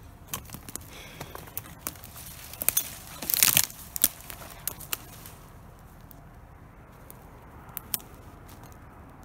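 Footsteps crunching over the forest floor, with dry twigs and undergrowth snapping and crackling. The snaps come thick in the first five seconds, with one louder rustling burst about three and a half seconds in, and then it goes quieter.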